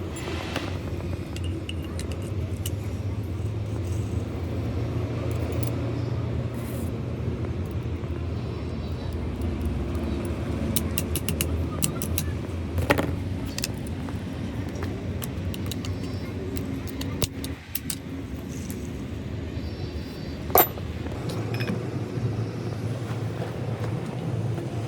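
A steady low engine drone, with a few sharp clicks, the loudest about 13 and 20 seconds in.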